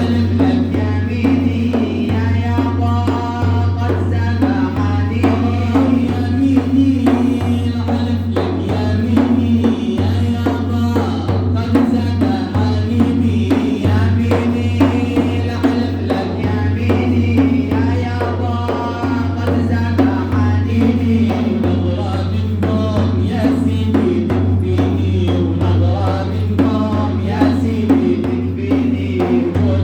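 Arabic religious praise song (madih) sung by male voices over a steady hand-drum beat, with a steady low hum underneath.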